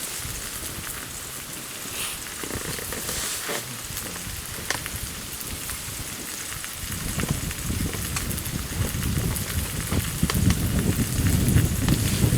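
Wood campfire crackling with a steady hiss and scattered sharp pops; a low rumble builds up about seven seconds in.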